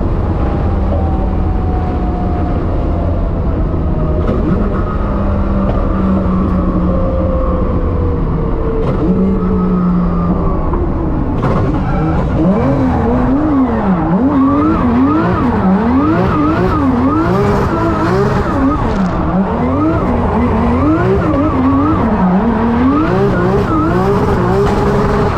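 Drift car engine at high revs, its pitch sliding slowly down at first, then from about halfway swinging up and down roughly once a second as the throttle is worked through a drift, with tyres skidding.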